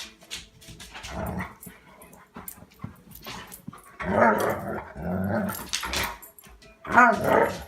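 Dog growling in a play fight, a series of short growls about four, five, six and seven seconds in, the last the loudest.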